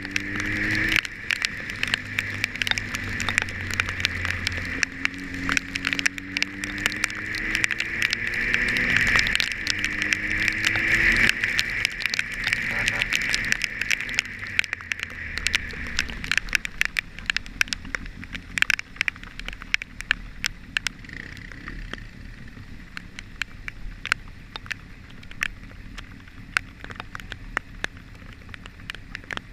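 A vehicle's engine on the move, rising and falling in pitch as it speeds up and slows over the first half, then fading under a steady hiss. Raindrops tick sharply and irregularly against the camera throughout.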